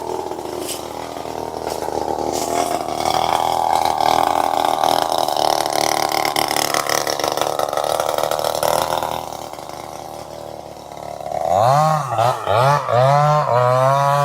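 Two-stroke chainsaw engine running steadily at speed. About nine seconds in it drops quieter for a couple of seconds, then comes back loud with its pitch wavering up and down.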